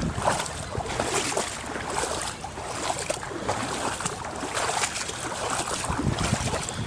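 Footsteps wading through knee-deep floodwater, the water sloshing and splashing in a steady rhythm with each stride.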